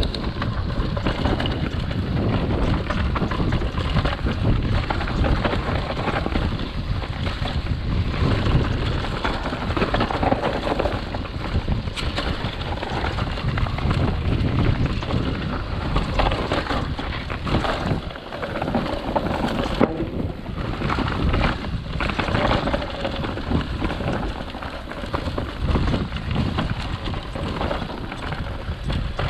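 Wind rushing over the microphone with the rumble and rattle of a mountain bike riding fast down a mountain trail, with a few sharp knocks from the bike over bumps.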